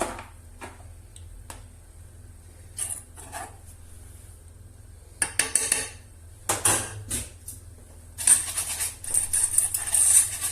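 A utensil knocking against a pot a few separate times, then rapid continuous stirring with clinks and scraping from about eight seconds in, mixing milk into sugar and custard powder for a cream.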